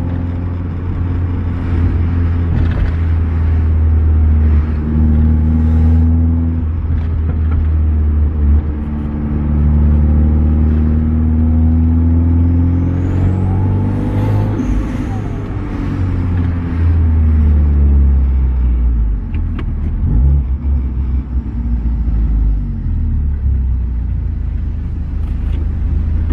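Hyundai Genesis Coupe's turbocharged 2.0 Theta four-cylinder, a freshly built motor with an Evo 9 turbo conversion, running on a drive. The engine note climbs slowly, drops off about halfway through, then runs on.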